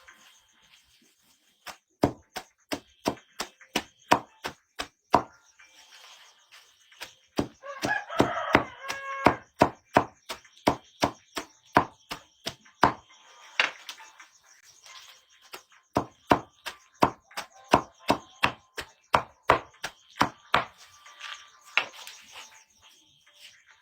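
A blade chopping in quick runs of sharp knocks, about two to three a second, with two short pauses; the knocks stop a few seconds before the end. A short pitched sound comes in about eight seconds in.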